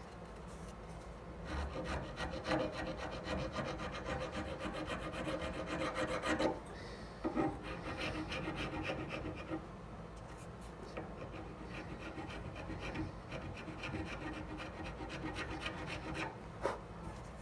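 Hand file rasping on a knife handle in quick, even back-and-forth strokes, shaping it by hand. The filing comes in three runs with short breaks between them.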